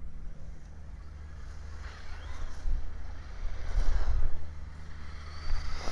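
Electric motors of radio-controlled Traxxas cars whirring as the cars speed off through snow, swelling twice and rising in pitch near the end. Heavy wind rumble on the microphone underneath.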